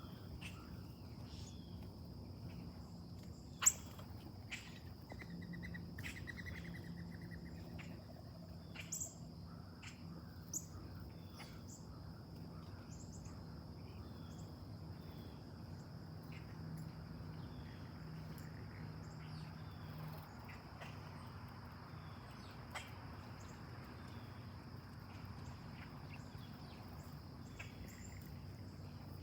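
Late-summer insects droning steadily in a high, even tone, with scattered short bird chirps over it and a brief trill about six seconds in. A single sharp click sounds near four seconds, and a low steady hum runs underneath.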